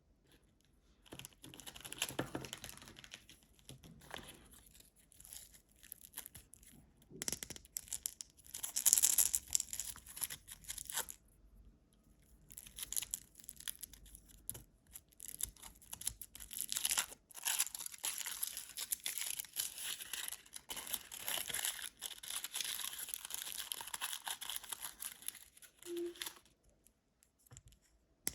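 Snack wrapper being torn open and crinkled in irregular stretches of crackling rustle, with a couple of short pauses, then stopping a couple of seconds before the end.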